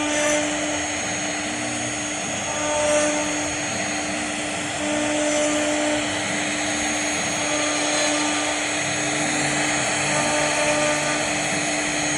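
CNC router 1325 spindle running with its bit cutting a deep relief into wood: a steady whine over a continuous cutting noise, swelling briefly about 3 and 5 seconds in.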